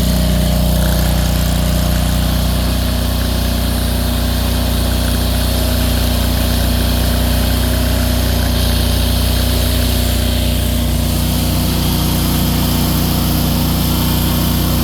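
AGT MY50 mini excavator's small engine running steadily at a constant speed, its cooling fan flipped to blow the opposite way.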